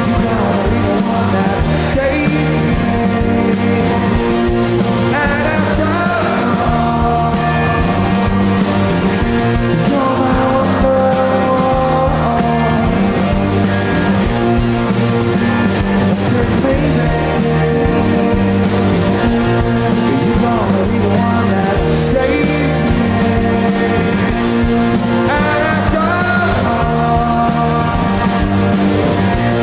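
A rock band playing live at a steady, loud level, with a melodic line that slides in pitch over sustained guitar and bass chords.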